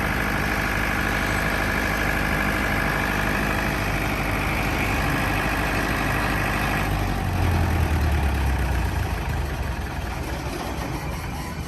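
Tata 709 four-cylinder diesel engine of a 50 kVA generator set running steadily. About seven seconds in the sound changes to a deeper hum that drops in pitch and then fades.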